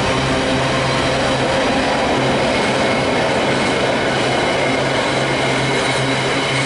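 Freightliner container wagons rolling past on the rails: a steady, loud rumble of wheels on track, with a thin high ringing above it.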